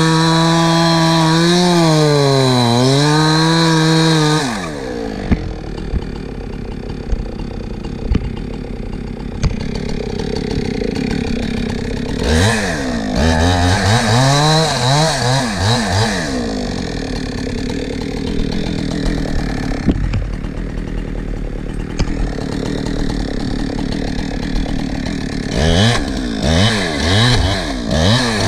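Two-stroke chainsaw running at full throttle in a cut, its pitch sagging briefly under load and recovering, then dropping to idle about four and a half seconds in. It idles with a few sharp knocks, is blipped up and down several times around the middle, and revved in short bursts again near the end.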